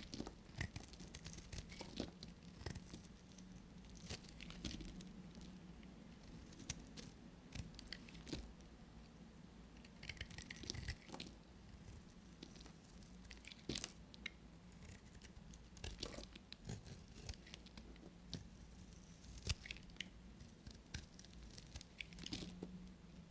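Knife cutting into dry bar soap: irregular crisp crackles, small snaps and scrapes, with a denser run of crackling about ten seconds in.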